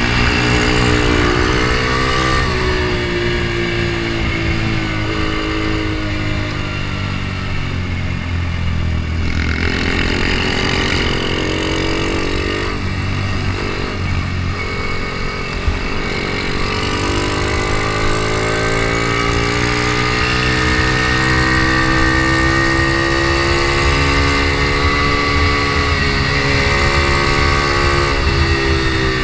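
Onboard sound of an Ohvale mini GP bike's single-cylinder four-stroke engine at race pace. The revs drop as it slows into corners and climb again under acceleration, with a long steady rise through the second half. A low wind rumble on the microphone runs underneath.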